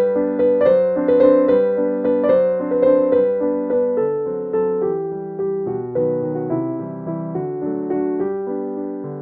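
Background piano music: a gentle melody of plucked-sounding notes that each fade after they are struck.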